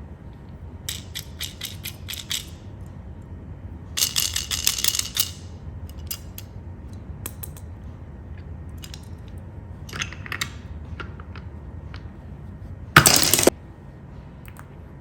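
Scattered clicks and rattles of small hard objects, including two quick runs of clicking, with a short loud burst of noise near the end over a low steady hum.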